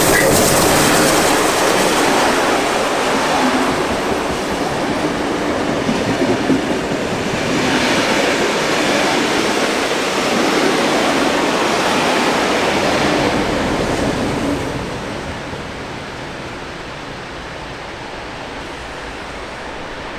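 Passenger train passing close by, its wheels running on the rails in a loud, steady noise that drops away about fifteen seconds in as the train moves off.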